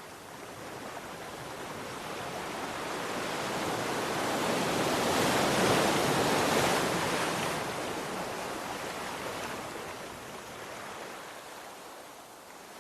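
Sea waves: one wave building slowly, peaking about halfway through, then washing out and fading.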